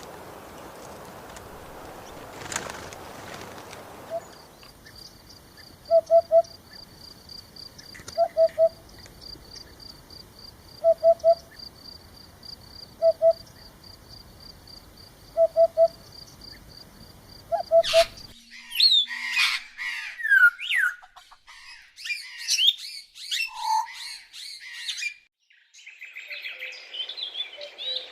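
Birds calling: a loud call of three short low notes repeats about every two seconds over a steady, fast, high trill. About two thirds of the way in it gives way abruptly to a busy mix of quick chirps that sweep up and down in pitch.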